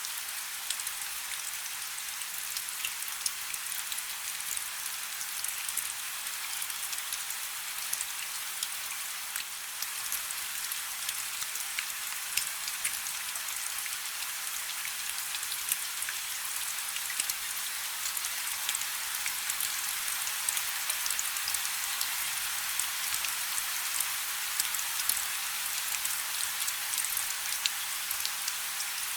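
Steady rain falling on water, a dense hiss full of individual drop patters.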